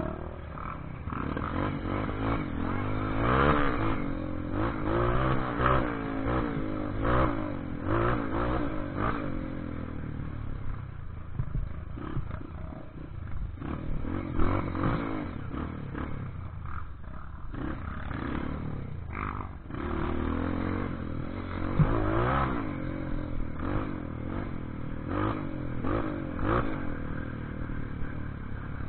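Off-road motorcycle engine revving up and down, its pitch rising and falling over and over, with rattles and knocks throughout.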